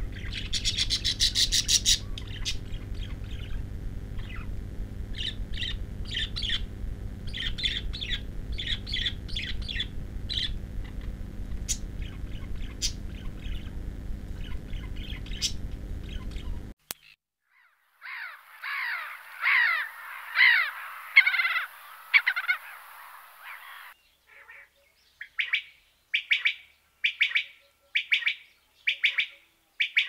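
Wild bird calls from several birds in turn. First comes a long run of short, sharp chirps over a steady low background rumble. It cuts to a louder burst of about six harsh, raspy calls, and then to a regular series of short calls, about one and a half a second.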